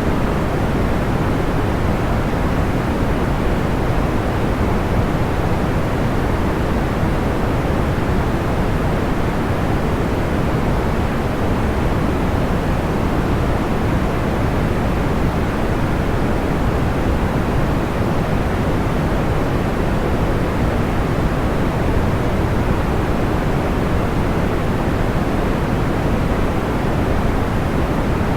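Steady, unchanging white noise weighted toward the low end, soft and deep, with little above a few kilohertz and no separate crackles or pops standing out.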